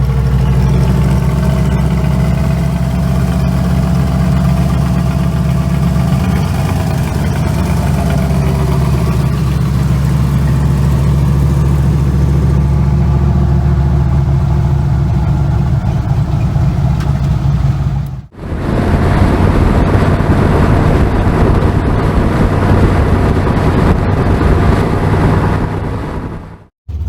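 A car engine idling loudly with a deep, steady rumble. The sound drops out abruptly twice, once past the middle and once near the end.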